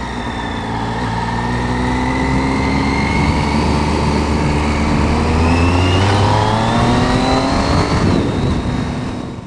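Triumph Street Triple's inline three-cylinder engine heard from the rider's seat while accelerating through the gears. The engine note climbs, drops at a gear change about six and a half seconds in, then climbs again.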